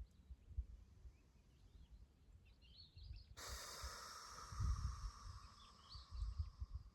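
A long, breathy exhale through the mouth that starts suddenly about halfway through and fades away over some three seconds. Birds chirp in the background over a low, uneven rumble.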